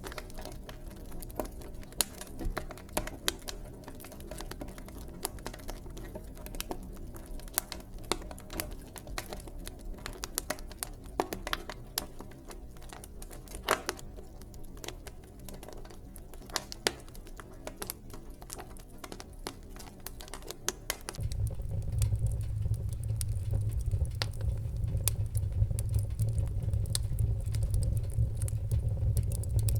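Wood fire in a fireplace crackling, with many sharp pops and snaps. About two-thirds of the way in, a steady low rumble comes in and the sound gets louder.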